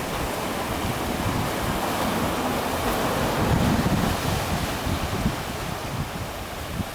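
Sea surf washing against a breakwater of concrete tetrapods, with wind buffeting the microphone in low rumbles. The surf swells a little louder around the middle.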